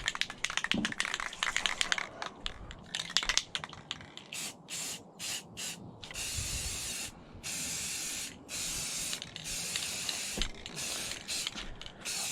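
Water spraying from a hose nozzle in repeated bursts that start and stop sharply, rinsing loosened rust and rust remover off a metal engine part. Clicks and rattles of handling come first, before the spraying begins.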